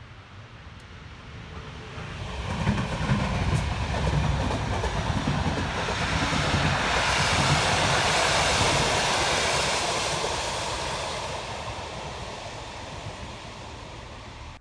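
A train passing close by: its rumbling running noise builds over the first couple of seconds, stays loud for several seconds, then fades away.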